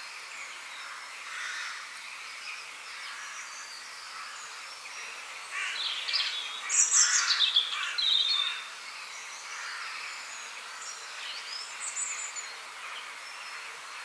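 Several songbirds calling and singing over a quiet outdoor background, with a louder run of quick, sharply falling calls from one bird about halfway through.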